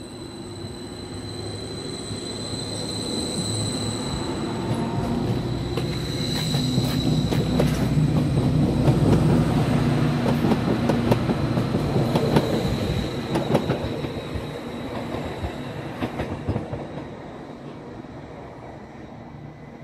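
Stadler FLIRT Class 755 bi-mode train pulling away under diesel power and passing beneath. A high steady whine is heard in the first few seconds, then the low running sound grows to a peak about halfway through, with a run of clicks from the wheels on the track. It then fades as the train draws away.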